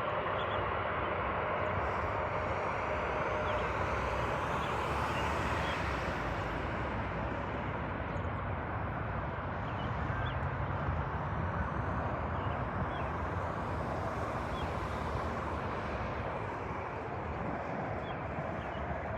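Jet airliner engines giving a steady rushing roar that slowly fades as the aircraft moves away.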